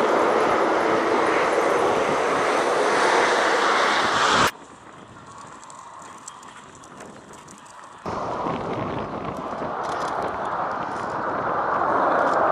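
Military aircraft engine roar, loud at first. It cuts off abruptly about four and a half seconds in to a much quieter stretch, then cuts back in a little after eight seconds and grows louder.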